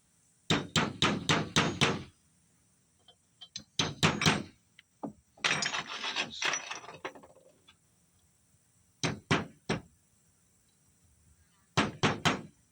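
Hammer tapping on metal in short runs of quick strikes, with pauses between: working a snap ring into place in a turbocharger's bearing housing.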